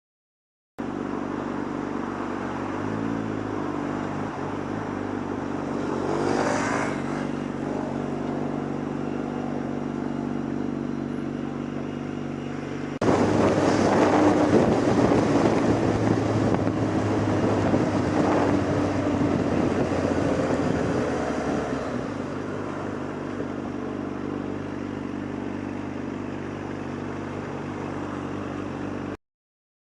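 Motor vehicle engine running steadily with road noise, with brief rises in pitch early on. About 13 seconds in, an abrupt cut to a louder, noisier stretch of traffic sound that eases off about 22 seconds in.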